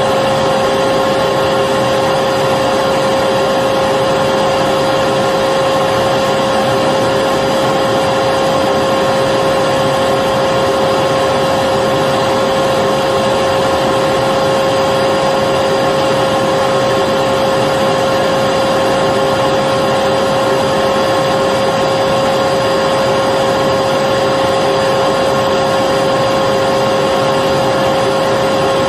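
Vacuum cleaner running continuously with a steady motor whine and airflow rush, never changing in pitch or level.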